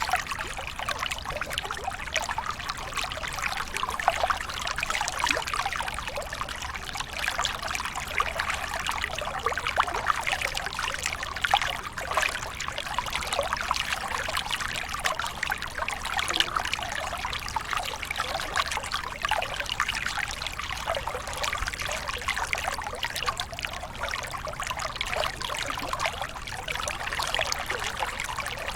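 Waterfall: water pouring and splashing without a break, a busy, irregular spatter of small splashes that neither rises nor falls.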